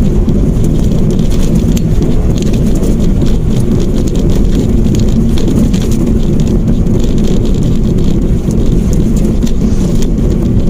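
Mitsubishi Mirage hatchback cruising at about 60 km/h: a steady, loud low rumble of engine and road noise.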